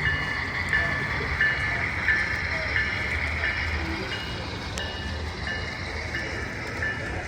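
Repeating electronic warning beep, a short two-pitch tone about one and a half times a second, over the low running of a vehicle engine.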